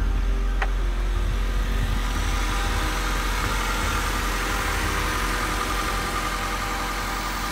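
Honda Civic EK's four-cylinder engine idling steadily with the bonnet open, left running just after starting following an engine-bay wash.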